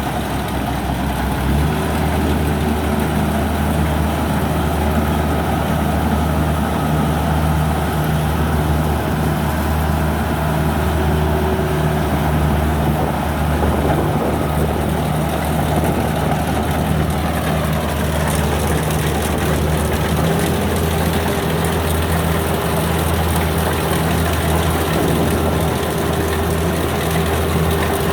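Rice combine harvester's diesel engine running steadily. Its pitch climbs in the first second or two, then holds.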